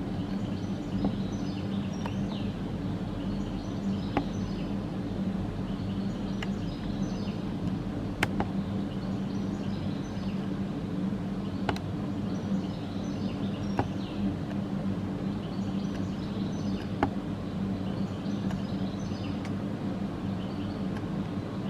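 Small birds chirping in short, repeated high phrases over a steady low hum, with a sharp click every few seconds.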